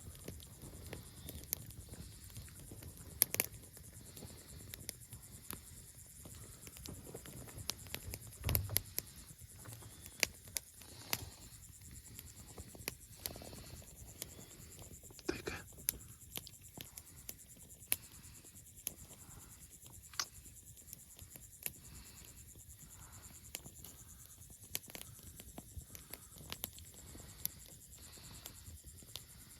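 Faint outdoor ambience: a steady high-pitched whine under many scattered sharp clicks and taps, with a low thump about eight seconds in.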